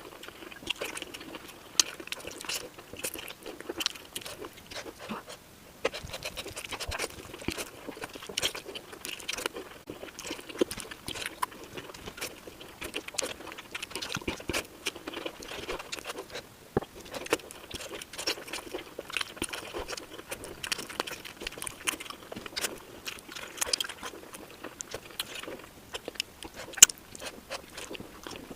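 A person eating fish curry with rice, chillies and salad close to the microphone: continuous chewing and crunching, with many irregular sharp clicks and mouth smacks.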